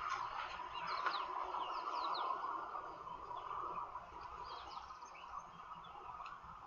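Birds chirping, many short quick sweeping notes scattered through, over a steady hiss.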